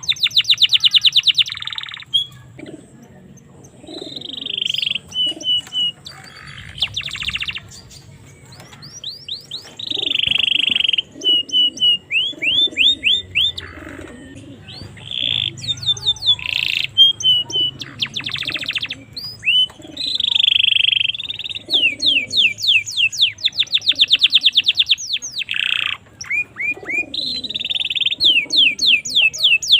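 Domestic canary singing a long, varied song of fast trills and rapid runs of repeated high notes, broken by short pauses between phrases.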